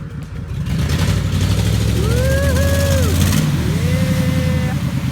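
A vehicle engine running hard with a deep, steady rumble, revving as it drives through mud. A pitched whine rises, holds and falls away about two seconds in, and rises again shortly after.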